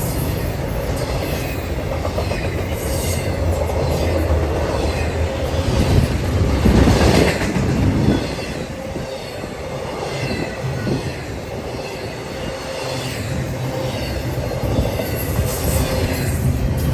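Southbound intermodal freight train rolling past at track speed: a steady rumble of steel wheels on rail with clickety-clack over the rail joints and faint wheel squeal. There is a louder surge about six to eight seconds in.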